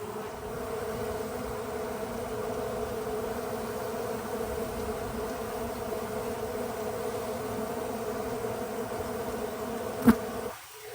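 Honeybee colony buzzing: a steady, massed hum of many bees, with one sharp click near the end.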